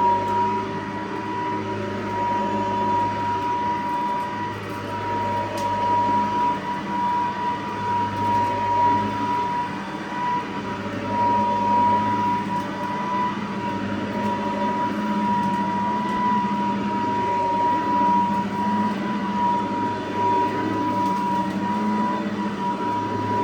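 Cordless Riccar vacuum cleaner running steadily, a high motor whine over a lower hum, its loudness rising and falling a little.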